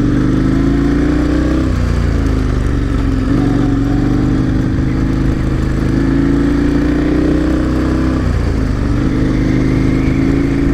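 KTM 1090 Adventure R's parallel-twin engine running under way, heard from the rider's helmet with steady wind noise; the engine note dips and climbs back up twice, about two seconds in and again about eight seconds in.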